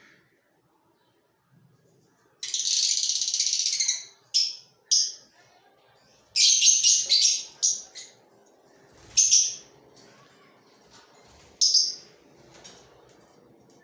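Pet lovebirds calling: one long, harsh, high-pitched call a couple of seconds in, then a series of short high calls, some bunched together and a few on their own.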